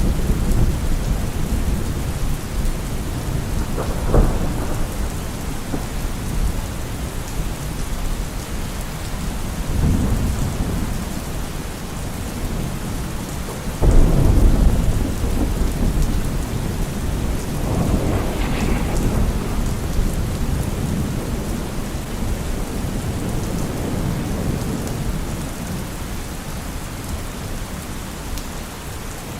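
Steady heavy rain with thunder rumbling repeatedly, a sharp loud crack about halfway through that rolls on for several seconds.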